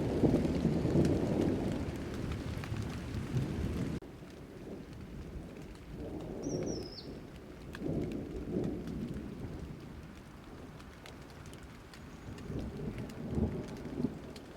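Steady rain with rolling thunder: a long rumble at the start that fades, then several more low rolls of thunder. A single short bird chirp about six and a half seconds in.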